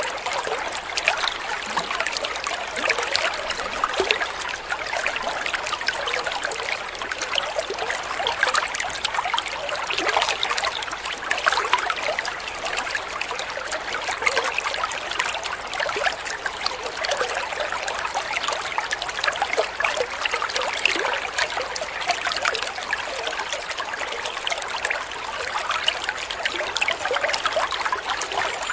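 Water trickling and babbling steadily over stones in a small stream.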